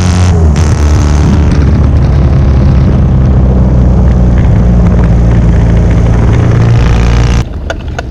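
Norton 750 short-stroke parallel-twin racing engine running loud at fairly steady revs, with a slight drop in pitch near the start. The engine sound cuts away abruptly about seven seconds in.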